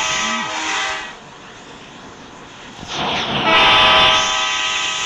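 Train horn sounding: a multi-tone blast that stops about a second in, then after a quieter gap and a short rushing noise, another long blast from about three and a half seconds in.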